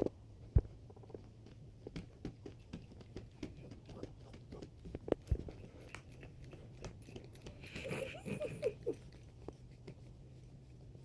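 A dog scuffling with a plush toy, making irregular small knocks, taps and rustles. About eight seconds in there is a short burst of wavering, pitched vocal sound.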